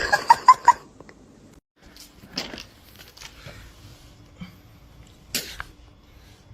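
A pet animal giving four or five short, high calls in quick succession in the first second, followed by fainter scattered noises.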